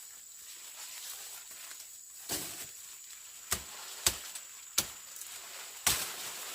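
Sharp chopping strikes from a hand tool, about five, spaced unevenly and separated by quiet stretches.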